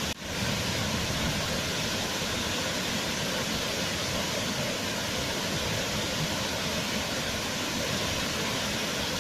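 Waterfall: a steady, even rush of falling water, with a brief dropout just after the start.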